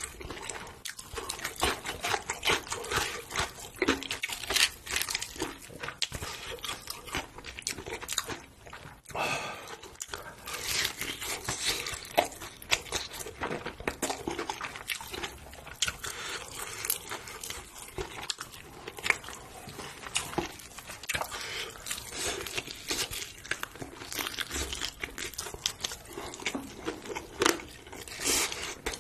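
Close-up crunching and chewing of crispy fried chicken coated in spicy sauce, a dense run of sharp crackles from the crisp breading as it is bitten and chewed.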